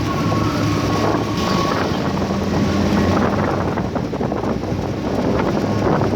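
A motor vehicle's engine running with a steady low hum, with wind noise rushing on the microphone.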